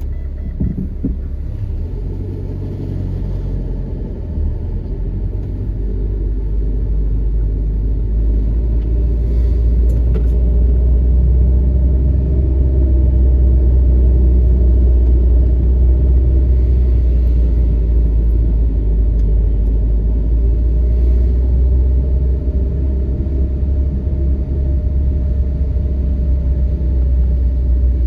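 Car driving, heard from inside the cabin: a steady low engine and road rumble with tyre noise, growing louder over the first dozen seconds or so and then holding.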